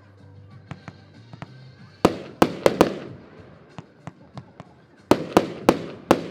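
Consumer fireworks battery, the Diamond Pyro Master 138-shot cake, firing. Two volleys of four loud bursting bangs each come about three seconds apart, each bang echoing away, with fainter crackles and pops between the volleys.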